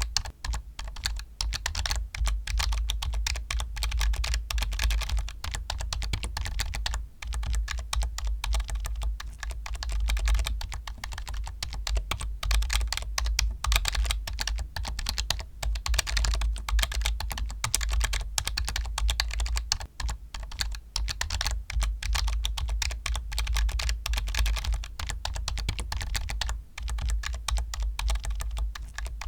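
Computer keyboard being typed on quickly and without let-up, a dense run of key clicks with a low thud under them, broken by a couple of brief pauses.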